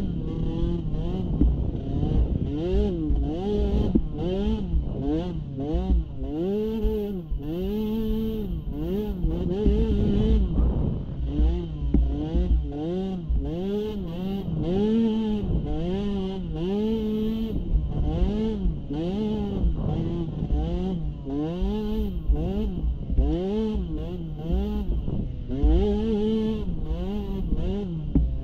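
Small youth ATV engine revving up and falling back over and over, about once a second, as the throttle is worked on and off, with a steady low rumble underneath.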